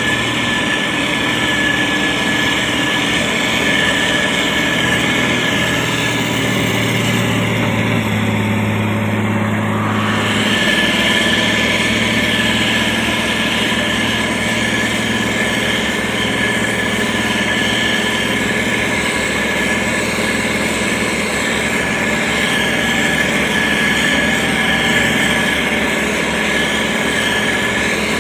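Diesel engine of a SANY STG190C-8S motor grader running steadily under work, with a brief change in its note around ten seconds in.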